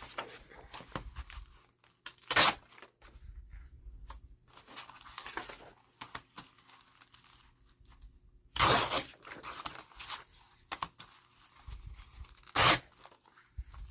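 Paper being torn and handled, with quieter rustling between the rips. There are three loud rips: about two and a half seconds in, a longer one around nine seconds, and one near the end.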